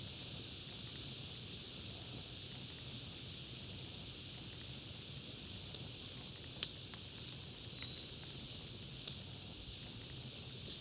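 Campfire crackling over a steady hiss and low rumble, with a few sharp pops in the second half. Two faint short bird chirps come through, one early and one about eight seconds in.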